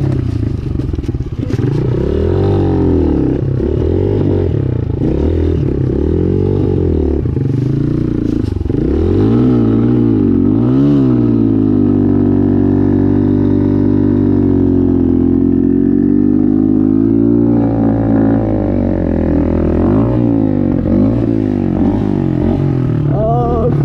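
Dirt bike engine revved up and down over and over, then held at high revs for several seconds around the middle before falling and rising again, as the bike is worked up a steep climb.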